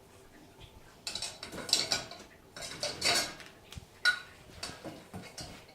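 Husky eating a meat paste from her bowl: a run of irregular wet licking and chewing sounds with the bowl knocking and clinking, starting about a second in.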